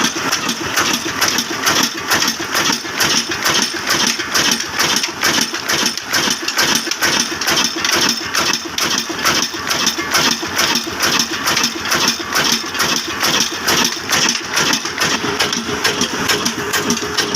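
Old Hornsby black diesel engine, a heavy slow-running single-cylinder, running steadily under load while driving a mini rice mill, with a rapid, even knocking beat.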